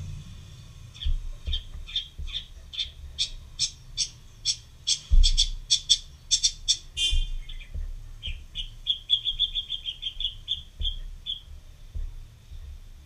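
A bird calling: a series of short, clear notes that speeds up, a harsher note, then a fast trill that stops about eleven seconds in, over soft marker-on-paper sounds and light knocks.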